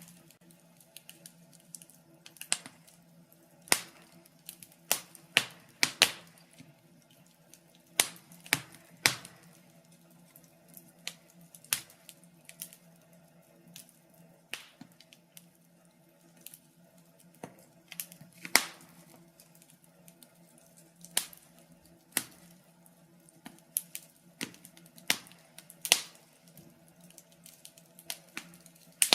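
Wood logs burning in a fireplace and crackling: irregular sharp pops and snaps, several a second at times, a few much louder than the rest, over a faint steady low hum.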